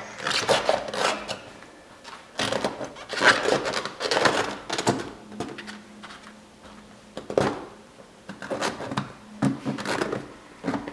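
Rubber inner tube and dirt bike tire being handled and rotated by hand, giving irregular scraping, rubbing and rustling noises in bursts, over a faint steady hum.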